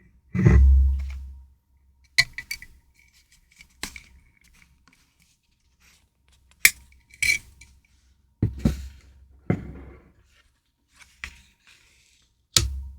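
Stationery and storage items being handled on a desk: a dull thump about half a second in, then a series of separate sharp clicks and taps as hard pieces are set down and put away, with light rustling near the end.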